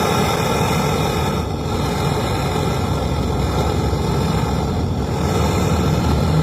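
Brazing torch flame burning with a steady rushing hiss and a low hum underneath, as the refrigerator gas-line filter drier is brazed onto the pipe.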